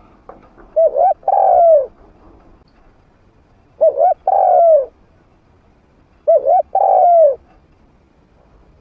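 Spotted dove cooing with a medium-pitched voice, three calls about two and a half seconds apart. Each call is a couple of quick short coos followed by a longer coo that rises and falls.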